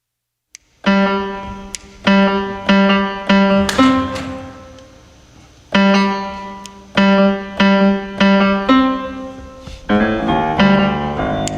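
Piano playing struck, repeated chords that ring and decay, with a pause of about two seconds near the middle and fuller chords near the end.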